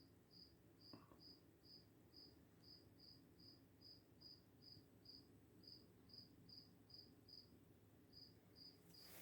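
A single cricket chirping faintly and steadily: short, high-pitched chirps at an even pace of about two to three a second, with one brief pause near the end.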